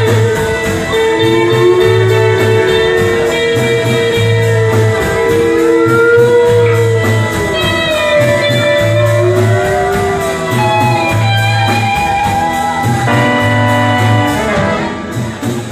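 Live rock band playing an instrumental passage: a repeating bass figure, steady cymbal ticks and sustained lead guitar lines with bending notes.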